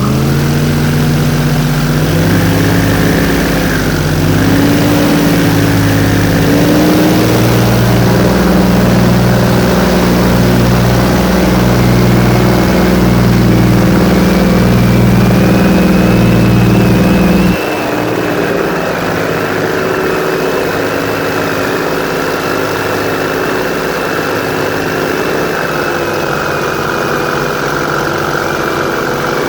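Airboat engine and propeller running steadily, with a slow pulsing beat. Its pitch creeps up over the first few seconds. About two-thirds of the way in, the deep part of the sound drops away suddenly and the level falls a little.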